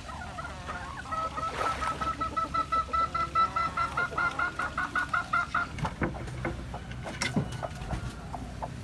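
A chicken clucking in a fast, even run of calls for about four seconds, then a few light clicks and knocks.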